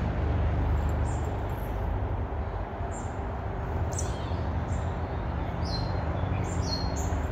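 Small birds chirping in short, high calls every second or so over a steady low rumble.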